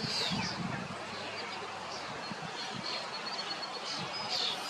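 Wild birds calling outdoors: short, high, downward-sweeping calls near the start and again about four seconds in, with a thin high steady note in between. There is a steady background hiss and a few low thuds in the first second.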